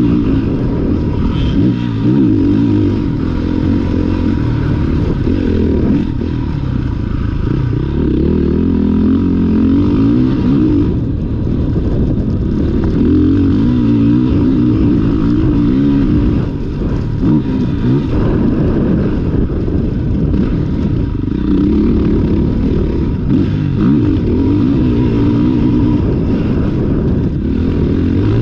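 Motocross dirt bike engine revving up and dropping back again and again as it is ridden hard round the track, heard close up from an action camera on the bike or rider.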